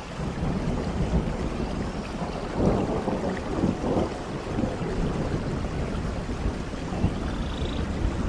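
Steady heavy rain with low rumbling thunder that swells a few seconds in. A faint bird call sounds near the end.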